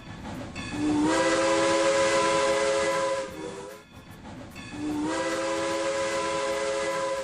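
Steam locomotive whistle blowing two long blasts over hissing steam, each blast sliding up slightly in pitch as it starts.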